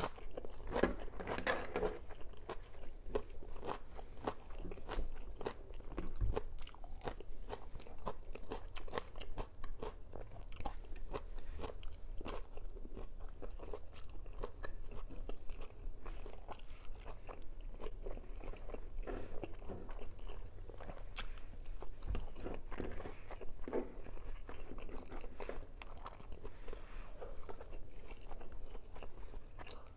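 Close-miked eating sounds from a person biting and chewing food, likely longganisa sausage, rice and green chili, with many small crunches and mouth clicks scattered irregularly throughout.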